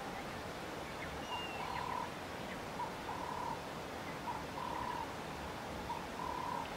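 A bird calling: a short note followed by a longer held note, repeated four times about every second and a half, over a steady outdoor hiss.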